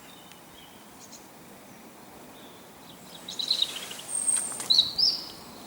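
Small wild birds chirping and calling from about three seconds in: short high chirps and quick pitch glides over faint outdoor background noise.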